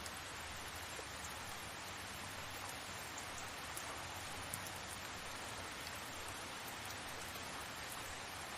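Steady rain falling as an even hiss, with faint scattered drop ticks.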